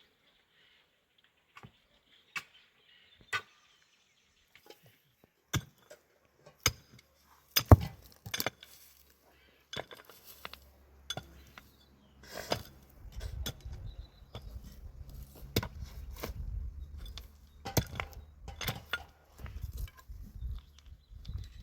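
Irregular sharp clinks and knocks of hard objects striking one another, a few at first and then more often, with a low rumble underneath from about halfway through.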